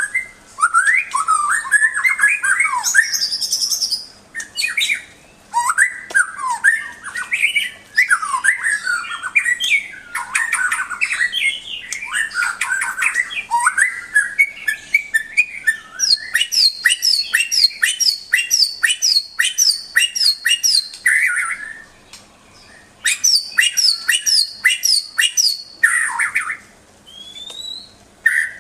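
White-rumped shama (murai batu) singing a long, varied song of gliding whistled phrases. Past the middle it switches to a quick run of repeated sharp high notes, about two a second, and there are brief pauses between phrases.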